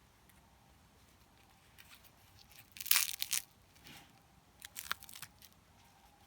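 Crinkling, crunching rustles in two short bursts, the louder one about three seconds in and a second shortly before the end.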